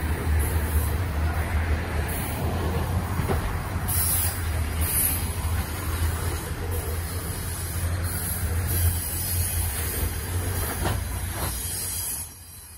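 Coal hopper wagons rolling past at close range: a steady low rumble of wheels on rail, with brief high-pitched hissing and squeal from the wheels now and then. The sound drops suddenly near the end.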